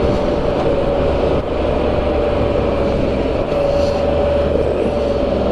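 Can-Am Spyder RT Limited's 1330 cc three-cylinder engine running at a steady cruising speed: a constant drone with a held mid-pitched tone over a low rumble, mixed with wind and road noise.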